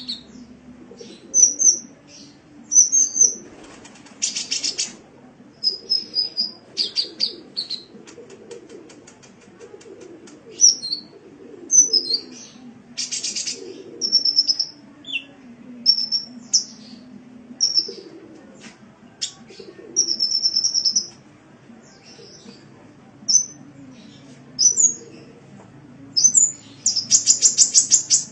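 Sunbird song: a run of short, high chirps and twitters, broken by a few rapid buzzy trills, over a low steady hum.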